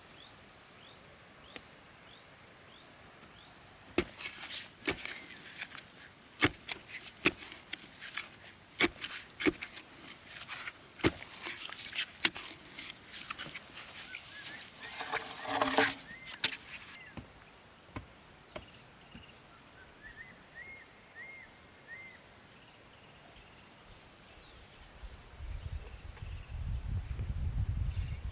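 Steady insect chirring, broken from about four seconds in by a run of irregular sharp knocks and clatter lasting about thirteen seconds. A few short chirps follow, and a low rumble comes in near the end.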